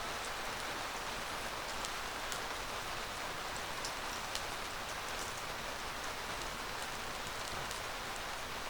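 Rain pattering steadily on the roof of a yurt, a constant hiss with scattered individual drop ticks.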